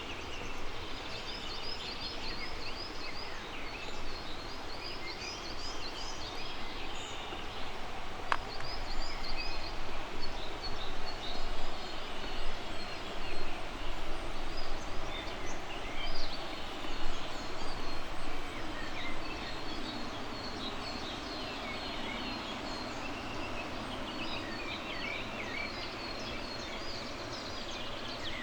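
Birdsong from several small birds: many short high chirps and trills, over a steady background rush. A single sharp click sounds about eight seconds in.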